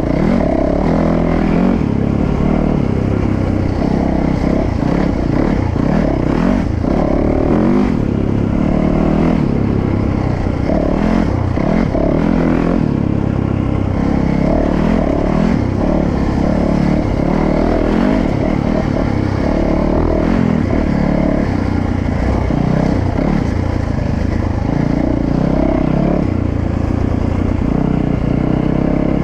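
Dirt bike engine revving as the bike is ridden hard off-road, its pitch climbing and dropping back over and over as the throttle is worked.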